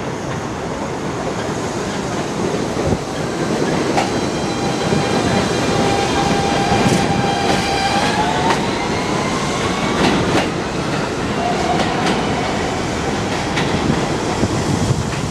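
New York City subway train running through an elevated station, with a steady rumble and wheels clacking over rail joints now and then. A high whine from the train sounds through the middle and rises in pitch a little past halfway.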